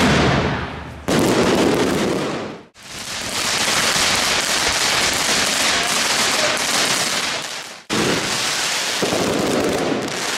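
Fireworks going off in spliced clips: dense crackling and popping with bangs. The sound breaks off sharply a few times, about a second in, near three seconds and again near eight seconds.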